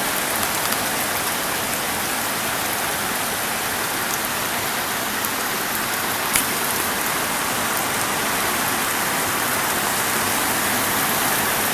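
Heavy rain pouring down steadily, pattering on surfaces, with a single sharp tap about six seconds in.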